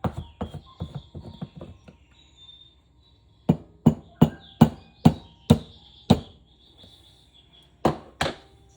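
Hard kitchen items knocking together: a run of light clicks, then a string of sharp knocks at two or three a second, and two more knocks near the end.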